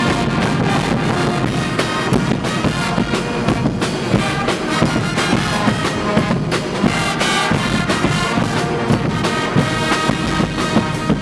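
Guggenmusik carnival band playing loud brass music, trumpets and trombones together.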